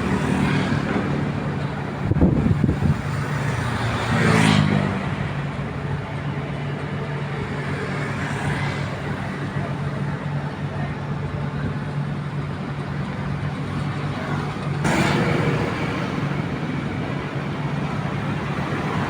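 Diesel engine of heavy machinery running steadily, its revs rising briefly about four seconds in, over a broad rushing noise.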